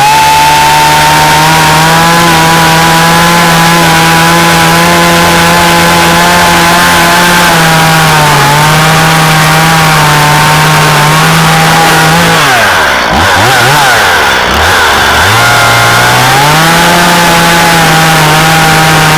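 Stihl MS170 chainsaw running at high revs, likely cutting with its freshly sharpened chain; the revs sag a little partway through, then twice fall to near idle and climb back.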